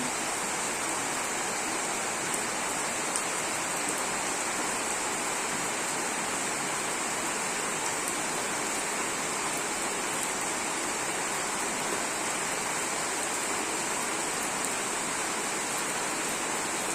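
Heavy tropical rain pouring down: a steady, even rush of rainfall, very heavy rather than a drizzle.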